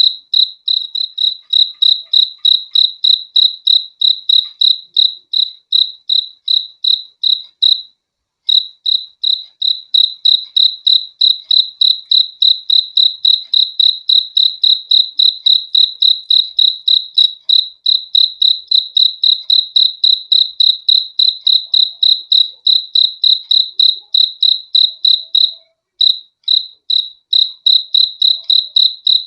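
A cricket chirping loudly in a steady, even rhythm of about three high-pitched chirps a second. The chirping breaks off briefly about eight seconds in and again near the end.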